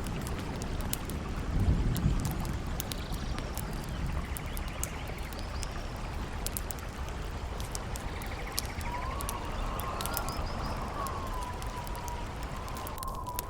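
Layered nature ambience: a campfire crackling with sharp pops over a steady rush of wind and running water and a low rumble that swells about two seconds in. From about nine seconds a thin, wavering whistle of howling wind joins.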